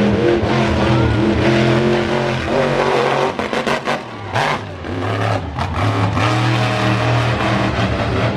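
Monster truck engine revving hard. It drops off briefly around the middle, with a few sharp knocks, then builds again.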